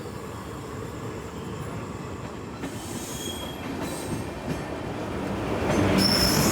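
Passenger train running, heard from aboard a sleeper-class coach: a steady rumble and rattle of the coach on the rails, with a brief high-pitched wheel squeal about three seconds in.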